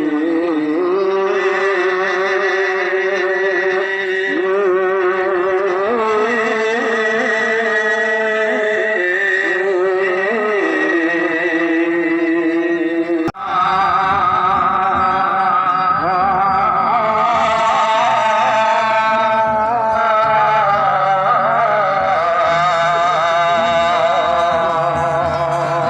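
Slow melismatic singing with long wavering held notes. It breaks off abruptly about 13 seconds in and carries straight on.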